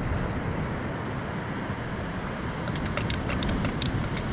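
Wind buffeting the microphone, a steady low rumble, with a brief cluster of small sharp ticks about three seconds in.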